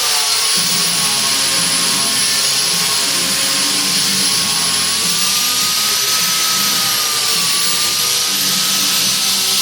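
A high-speed power tool running steadily with a whine and hiss while shaving rubber off a garden tractor tire to true out its humps. Its pitch drifts slightly, and a rougher low grinding joins about half a second in.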